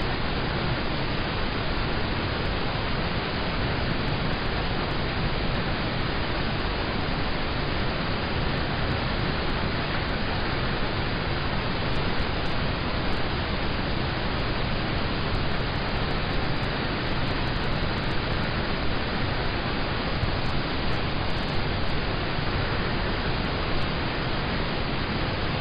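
Steady rain on a car, heard from inside the cabin as an even, unbroken hiss with no single drops standing out.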